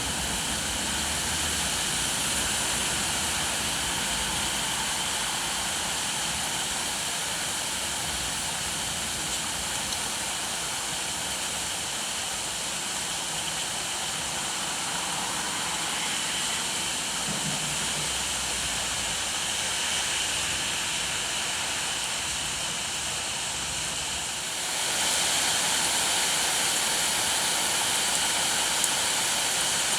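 Steady heavy rain, an even hiss that grows louder about 25 seconds in.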